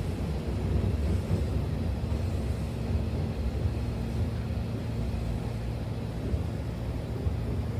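Hankyu Takarazuka Line train car running, heard inside the car by the closed doors: a steady low rumble of the wheels and running gear with a faint steady hum.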